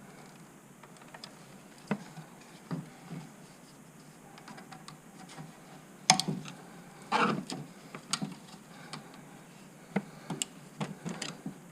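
Scattered plastic clicks and knocks of hands unplugging and handling an ECU wiring-harness connector, with a short louder clatter about six seconds in and another about a second later.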